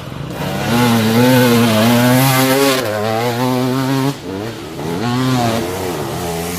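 Motocross bike engine running hard, its pitch wavering up and down as the throttle is worked. It drops away briefly about four seconds in, then picks up again.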